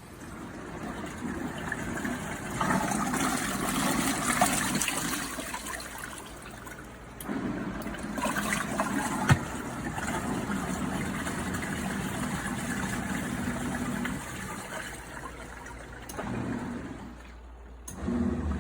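Water running and sloshing in a Costway portable mini washing machine tub, going on in uneven stretches that stop briefly near the end.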